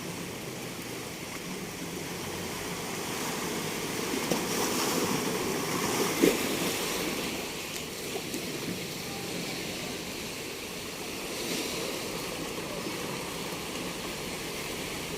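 Sea waves washing onto a beach, a steady rush of surf that swells for a few seconds around the middle. A single short knock about six seconds in.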